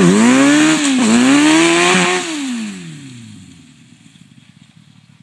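Yamaha FZR1000 inline-four motorcycle engine in a prototype quad, revved twice, the pitch rising and dropping each time. About two seconds in the revs fall away and it settles to a much quieter idle.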